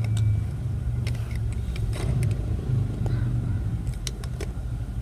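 A motor vehicle engine runs steadily in the background, giving a constant low rumble. Over it come scattered small clicks of plastic toy parts being handled and pushed together.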